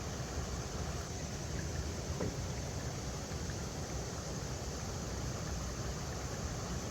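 River water running over rocks: a steady rushing noise with a low, unsteady rumble underneath.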